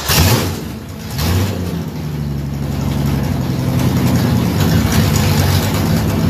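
1967 Ford Mustang's 200 cubic-inch inline-six, just started, surges in revs twice in the first second and a half, then settles into a steady idle.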